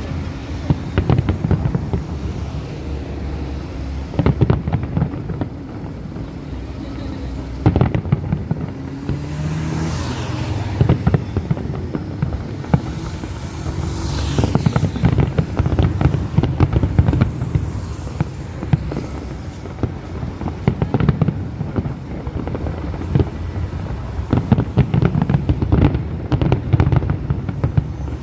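Fireworks display: a dense run of booms and sharp crackling bangs over a continuous low rumble, with a couple of whistling shells about ten and fourteen seconds in.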